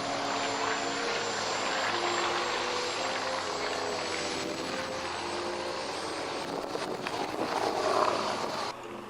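Propeller-driven piston aircraft flying over, a steady engine drone that swells about eight seconds in and then cuts off suddenly just before the end.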